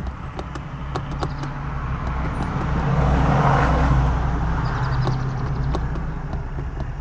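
A passing road vehicle whose noise swells to a peak about halfway through and then fades, over a steady low hum.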